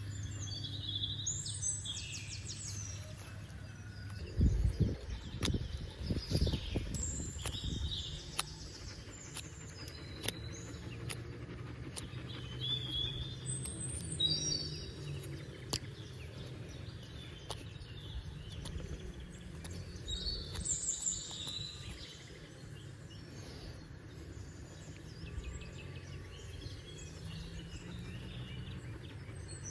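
Birds chirping and calling over a low outdoor rumble, with a cluster of low thumps and knocks about four to eight seconds in.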